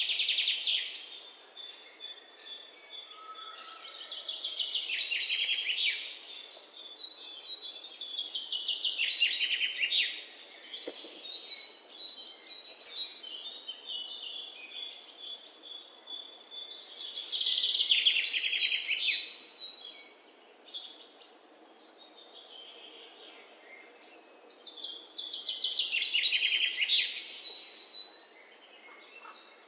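Songbirds singing: loud, rapid trilled phrases that drop in pitch, about five of them at intervals of several seconds, with a thin run of quick, high repeated notes carrying on between them.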